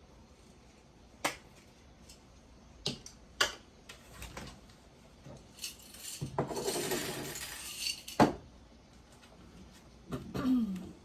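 Scattered sharp clicks and taps of small hard tools or objects being handled and set down, with a rustle, likely fabric, lasting a second or two in the middle, during fabric cutting and sorting.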